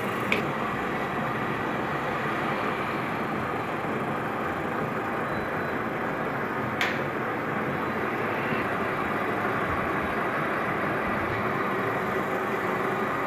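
Metal lathe running steadily while turning the hub of an aluminium motorcycle wheel to take larger bearings, with two sharp clicks, one right at the start and one about seven seconds in.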